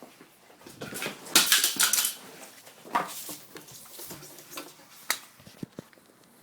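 Handling noises as the sewing machine is being plugged in: a brief clatter of hard objects about a second and a half in, then a few separate sharp clicks.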